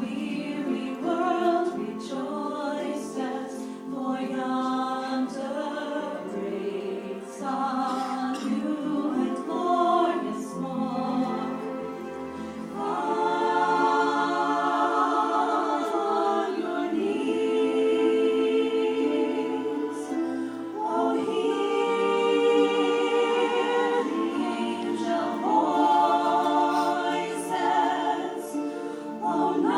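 A group of voices singing together a cappella, holding long chords with vibrato.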